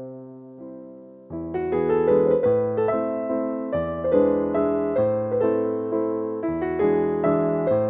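Background piano music: soft, gentle playing that fills out into fuller chords and a melody about a second in.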